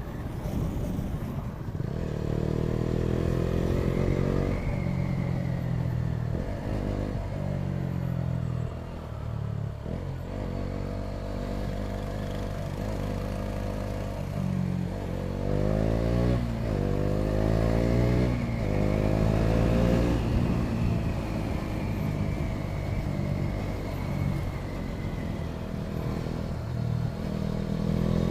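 KTM Duke 200's single-cylinder engine running through an Akrapovič titanium slip-on exhaust, idling with a bassy, not too loud note. It is revved once a couple of seconds in, then blipped several times in quick succession around the middle before settling back to idle.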